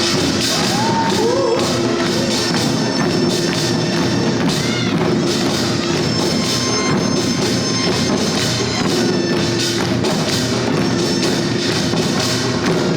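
Korean traditional drum-dance music: buk barrel drums beaten in a dense, steady rhythm, with a sustained melodic line held over the drumming and a few sliding notes near the start.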